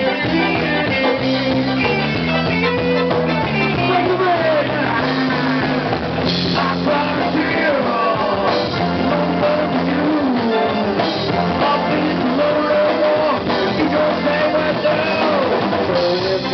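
Live rock band playing an instrumental passage: a bending lead melody over a steady bass line and drums.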